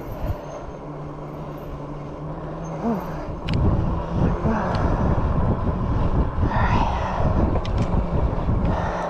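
Riding noise on an e-bike: a steady low hum at first, then, from about three and a half seconds in, loud uneven wind rumble on the microphone with a few sharp clicks.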